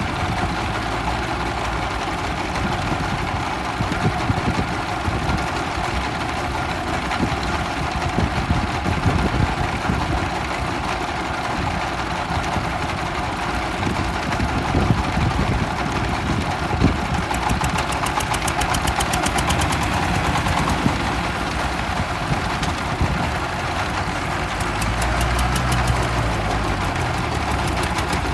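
Tractor's diesel engine running steadily as it pulls a plow, with a low, constant rumble that swells briefly near the end.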